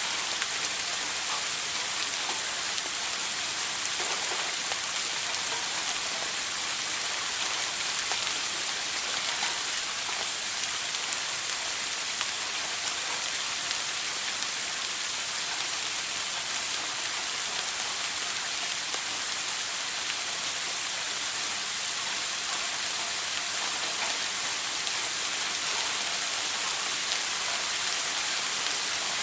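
Shower water running steadily, an even high hiss of spray with small scattered droplet ticks.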